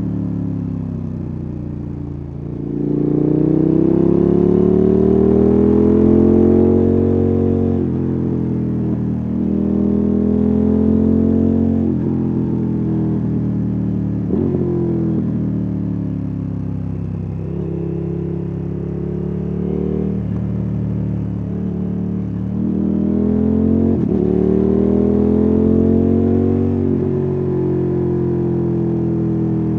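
KTM 1290 Super Adventure S's 1301 cc LC8 V-twin engine and exhaust, pulling out of slow corners: the pitch climbs under throttle for a few seconds, then falls away suddenly, four times over, with wind and road noise underneath.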